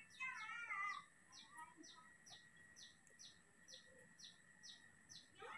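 Faint bird chirping: short, high, falling chirps repeated about twice a second. A brief wavering call in the first second is the loudest sound.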